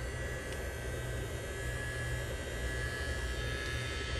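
Hot-air heat gun blowing steadily with a low hum, heating the phone's back glass to soften its adhesive.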